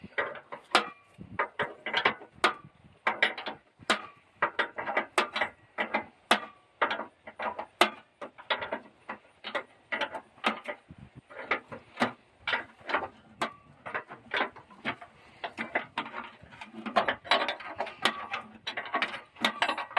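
Irregular metallic clicks and clanks, often several a second, from hand work with tools on the long-unused parts of an antique Blizzard silage chopper.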